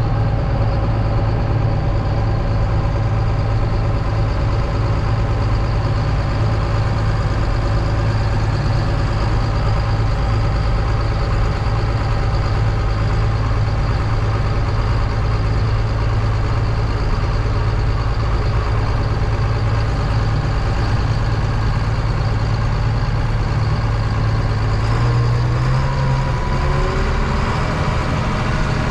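Heavy diesel engine running steadily, its pitch stepping up a little about 25 seconds in.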